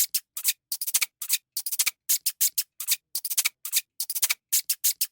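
A rapid run of short, dry scratchy rubbing strokes, about four a second, each brief and separated by silence.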